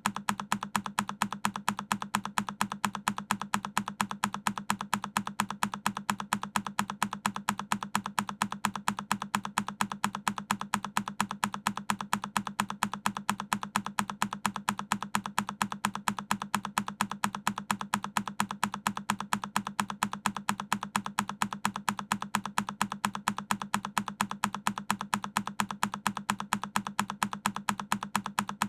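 A single key on a Keychron K10 mechanical keyboard pressed over and over: a sharp click repeated at an even pace, a few times a second.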